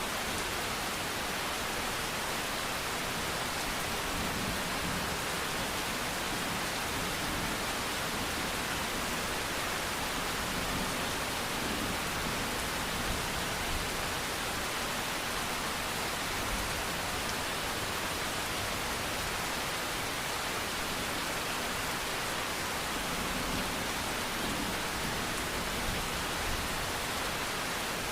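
Steady, unbroken rain: a dense hiss of falling rain with no distinct drops or thunder.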